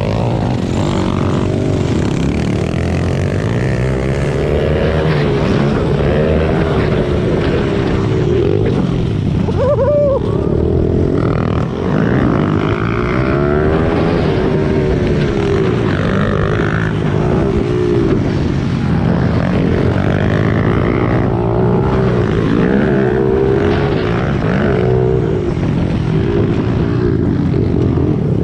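Pit bike's small four-stroke single-cylinder engine being ridden around a track, revving up and dropping back again and again, the pitch rising and falling every second or two.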